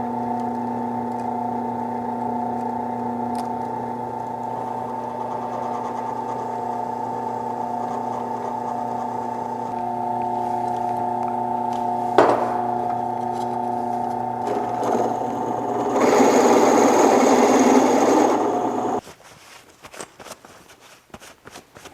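Electric drill motor running steadily with a whining hum, then the bit cutting into steel plate, louder and grittier, about 16 seconds in, before the motor stops about three seconds later; a few light clicks follow.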